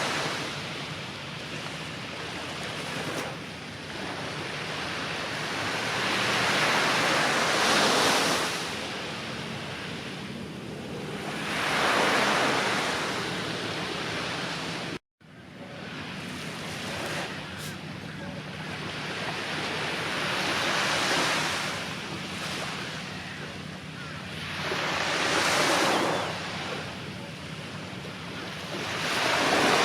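Sea surf on a beach: waves breaking and washing in, swelling loud every few seconds over a steady wash, with some wind on the microphone. The sound cuts out for an instant about halfway through.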